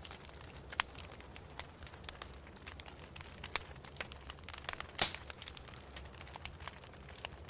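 Wood fire crackling in a fireplace: irregular snaps and pops, with one sharp pop louder than the rest about two-thirds of the way through, over a low steady hum.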